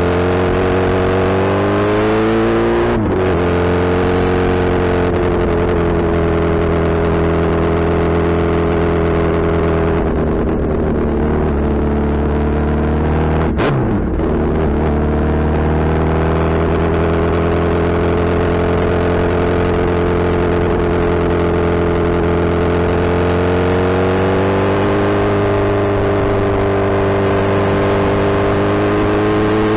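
Suzuki Hayabusa inline-four motorcycle engine and exhaust under way at steady speed. The note climbs and breaks at a gear change about three seconds in, dips sharply and comes back about fourteen seconds in, and climbs again a few seconds before the end.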